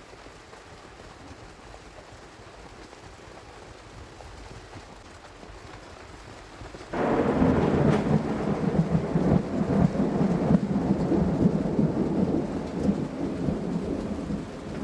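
Steady rain, then about halfway in a loud peal of thunder with heavy rain starts suddenly and runs until it cuts off abruptly at the end.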